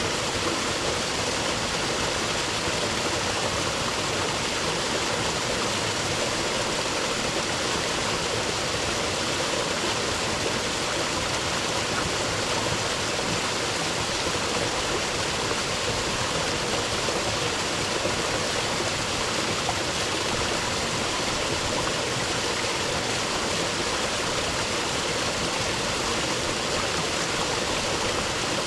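Creek water rushing and gurgling steadily over rocks.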